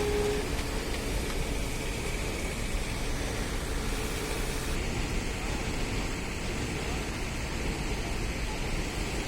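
Steady outdoor rumble and hiss of vehicles or machinery, with a brief steady tone right at the start. The hissing top end drops away abruptly about halfway through.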